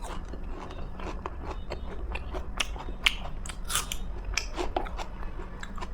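A person biting into and chewing a crisp fried vegetable pakora close to the microphone, with irregular crunches.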